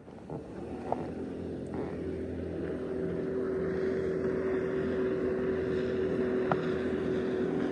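Boat motor running with a steady hum, growing louder over the first few seconds and then holding steady.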